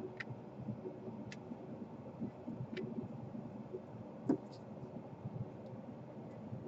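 Faint handling noise with a few light clicks and ticks, the sharpest about four seconds in, as heat-shrink tubing is worked off the wires of a laptop DC power jack.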